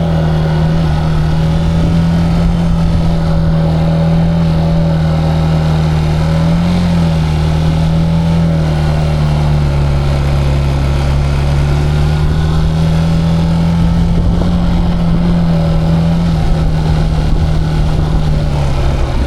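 Zontes cruiser motorcycle's engine running steadily under way, its pitch wavering a little, dipping about halfway through and falling near the end as the bike slows.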